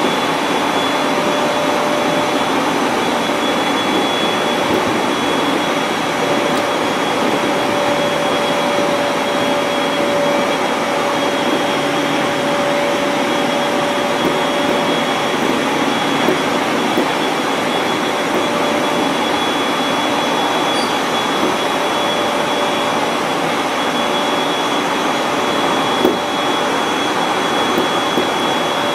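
701-series electric train running steadily at speed, heard from inside: a constant rush of wheels on rail with two steady whining tones, and a single brief click near the end.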